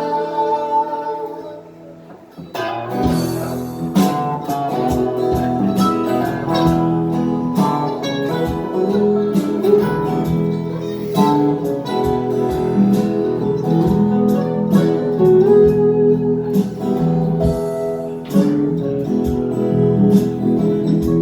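Live acoustic band music: a held vocal chord fades out, then acoustic guitar strumming resumes after about two and a half seconds and carries on as an instrumental passage.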